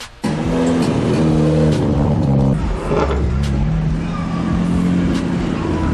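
A modified car's engine accelerating hard as it pulls away, cutting in abruptly just after the start. Its note shifts a couple of times, then holds steady.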